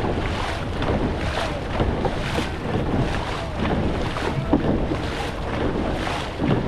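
Dragon boat crew paddling at race pace, paddles striking the water together about once a second, under heavy wind rushing on the microphone and water rushing past the hull.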